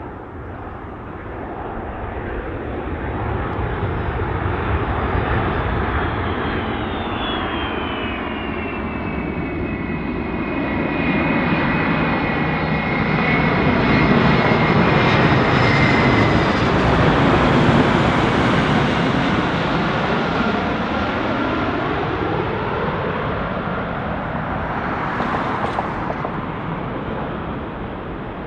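Jet aircraft passing by in flight. The engine noise builds to its loudest about halfway through, then fades, and a high turbine whine drops in pitch as it goes past.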